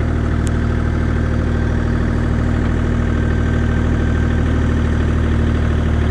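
Bobcat E35 mini excavator's diesel engine running steadily with a deep, even hum, with a faint high whine for a couple of seconds in the middle.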